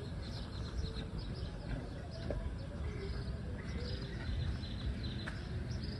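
Faint bird chirps and short calls scattered over a steady low outdoor background noise.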